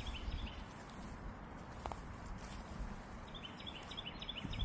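Faint outdoor ambience with small birds chirping in the background, the chirps coming quicker near the end.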